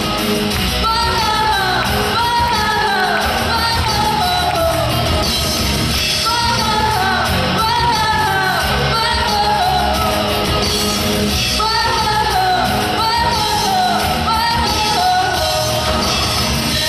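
A woman singing a Russian pop song over a backing track, in repeated phrases that fall in pitch about once a second.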